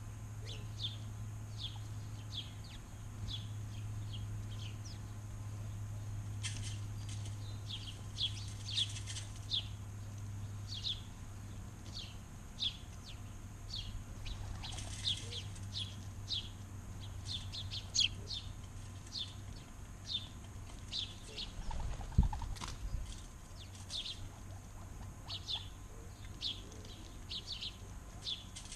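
Backyard birds chirping: many short, high, falling chirps, one or two a second, over a steady low hum that fades out about halfway through. A single sharp thump about 22 seconds in.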